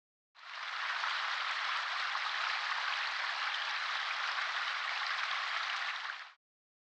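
Steady hissing noise that starts abruptly and stops abruptly after about six seconds.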